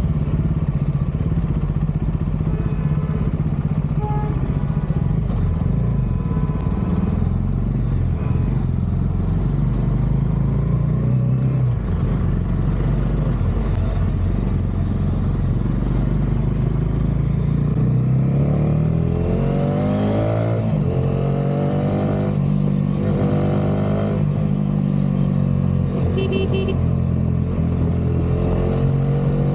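Bajaj Dominar 400's single-cylinder engine and exhaust under way at a steady pace, then, from about two-thirds through, accelerating with the pitch rising and dropping several times as it shifts up through the gears.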